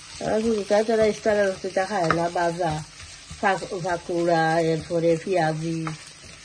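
Food frying in a pan with a steady sizzle, under a person's voice in two long phrases.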